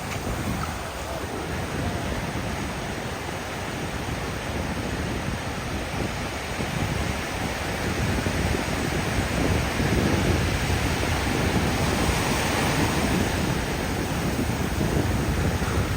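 Ocean surf breaking and washing up on a beach, growing louder about halfway through, with wind rumbling on the microphone.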